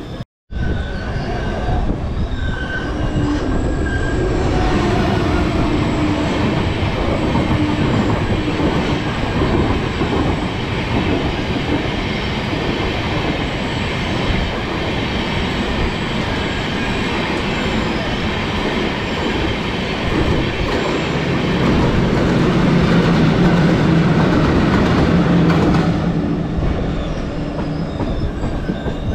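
Passenger train running on the rails, heard from on board: a steady, loud rumble of wheels on track with rail clatter. It grows louder from about four seconds in and eases off near the end.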